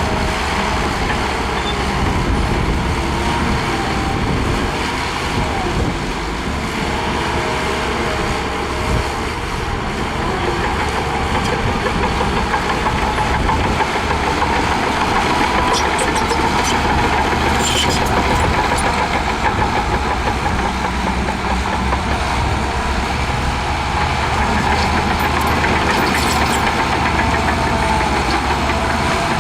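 Shantui DH17C2 bulldozer's diesel engine running steadily while it works, with a few faint metallic clinks in the second half.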